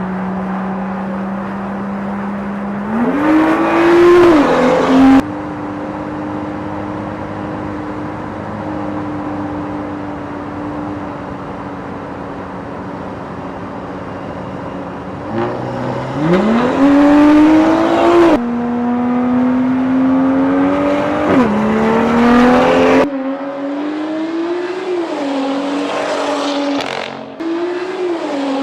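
BMW M2's turbocharged straight-six engine running under load, its pitch climbing as it accelerates and dropping sharply at each gear change. There are long steady stretches and repeated rises and drops in the second half.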